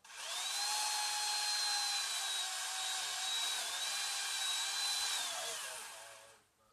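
Power saw running at a steady high whine for about six seconds, starting suddenly and winding down in pitch near the end.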